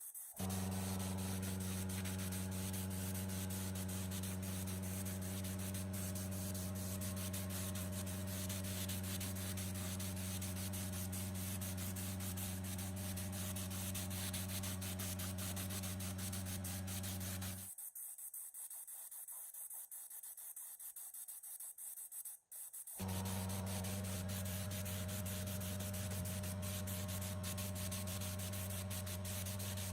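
Electric power tool running steadily with a low hum and a rasping hiss of abrasive on metal, typical of sanding or grinding rust off pump parts. It stops a little past halfway and starts up again about five seconds later.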